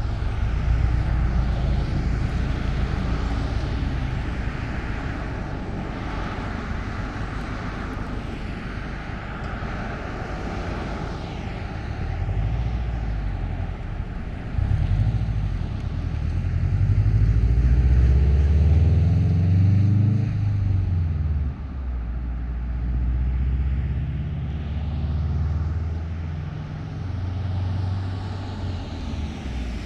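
Motor vehicle engines going by on the street, running throughout. Past the middle, one engine rises in pitch as it speeds up, then drops suddenly, like a gear change.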